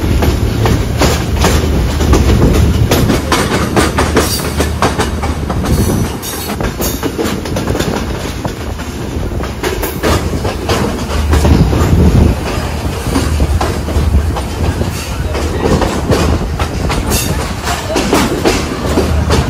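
Yal Devi Express passenger train running on the rails as it comes into a station, a steady low rumble with frequent irregular wheel clicks and clacks over rail joints.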